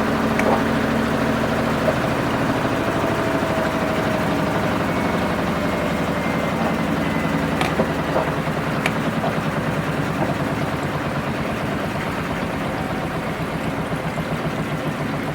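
Washing machine running mid-program: a steady motor hum with a fast, low pulsing and a couple of light clicks.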